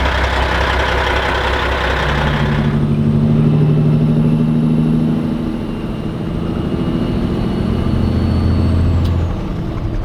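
Peterbilt truck's Cat 3406E diesel running through a straight-through AeroTurbine muffler, heard from the cab. A broad hiss stops sharply about two and a half seconds in, and the engine note then steps in pitch a couple of times.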